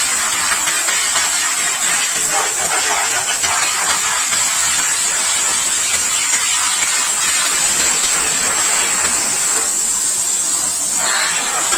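Steady, loud hiss of a high-pressure jet at a bike wash spraying the motorcycle, with a brief change in the spray about ten seconds in.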